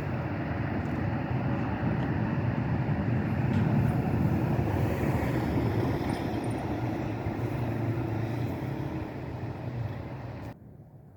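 Jet airliner engines running, a loud steady rumble that swells a little over the first few seconds, cut off abruptly near the end.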